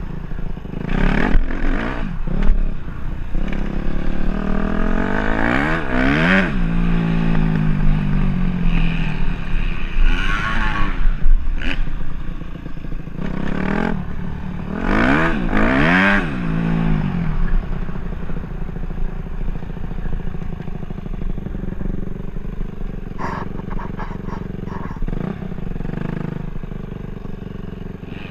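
Dirt bike engine revving and riding past, loudest as it passes close by twice, then running quieter, with a few sharp clicks late on.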